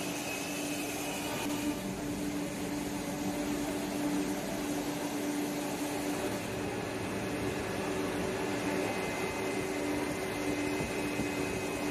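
Steady machine hum of a Vande Bharat electric train standing at the platform, its air conditioning and onboard equipment running, with a held low tone under an even noise.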